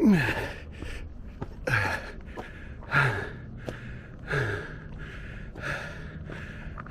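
A man breathing hard from exertion on a steep uphill climb: heavy gasping breaths about every second and a half, several of them voiced exhalations falling in pitch.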